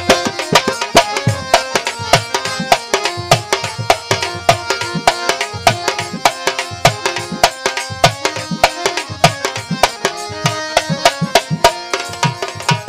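Instrumental interlude of a Bengali qawwali: fast, steady hand-drum strokes under a held melodic line, with no singing.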